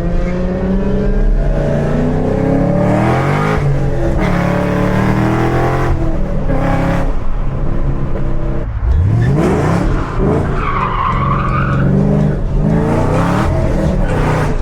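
Supercharged V8 of a Chevrolet Camaro ZL1 revving hard, its pitch climbing and dropping several times, with a sharp rev rise and a brief tire squeal about ten seconds in as the car slides.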